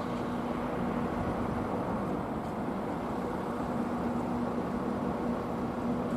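Electric freight locomotive hauling a short freight train at low speed: a steady hum over continuous running and rolling noise.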